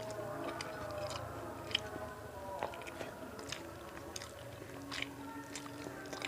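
Close-up chewing and biting of a mouthful of rice and banana-leaf-steamed small fish (pepes ikan seribu), with scattered sharp clicks of the mouth every half second or so.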